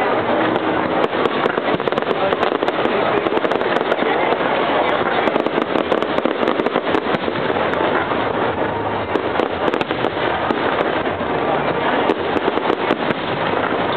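Fireworks display going off in dense, rapid succession: a continuous barrage of bangs and crackling pops with no break.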